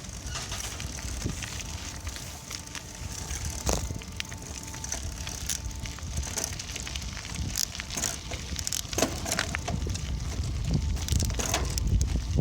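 Riding a bicycle: wind buffeting the microphone over the rumble of the tyres rolling, with frequent sharp rattles and clicks from the bike.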